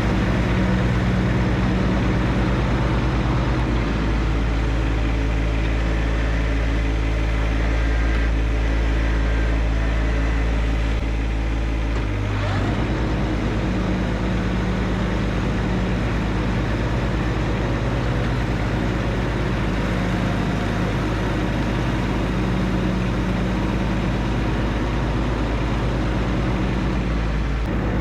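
John Deere 1025R compact tractor's three-cylinder diesel engine running steadily, its note shifting about four seconds in and again near the middle.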